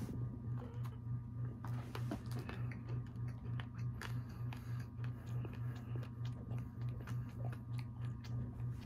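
Close-up biting and chewing of a sprinkle-covered sugar cookie, with scattered crisp crunches. Under it runs a steady low hum that pulses about three times a second.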